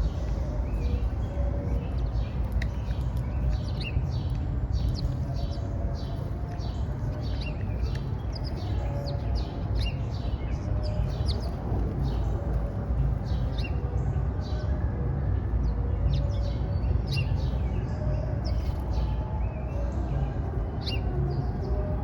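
Small birds chirping, many short chirps in quick succession, over a steady low rumble.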